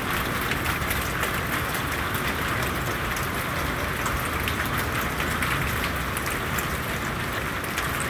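Heavy rain pouring down: a steady hiss of rainfall with many small ticks of drops striking surfaces.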